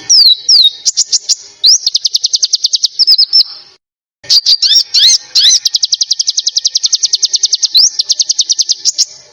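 Songbird singing two high phrases. Each opens with a few slurred whistled notes and runs into a fast, even trill of about ten notes a second, the rapid rattling song that bird keepers call besetan. The song cuts off abruptly a little under four seconds in and starts again half a second later.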